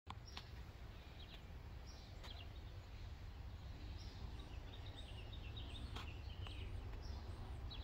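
Songbirds chirping in short scattered phrases over a low steady rumble, with three faint clicks.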